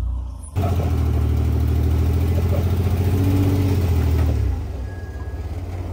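Jeep engine revving hard under load on a rock climb, coming in abruptly and held at high revs, then dropping back to a lower, uneven running about four seconds in.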